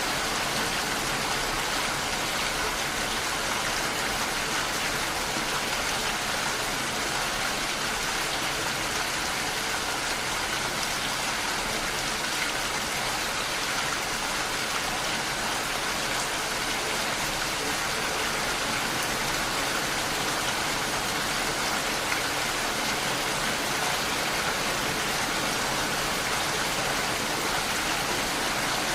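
Steady rainfall: a constant, even hiss of rain with no pauses or changes.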